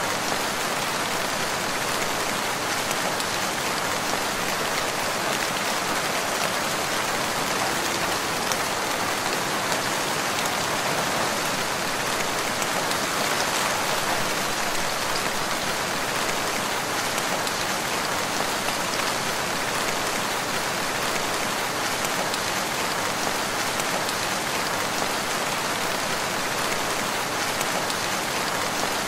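Steady rain falling, an even hiss of countless drops that neither builds nor fades, with no thunder.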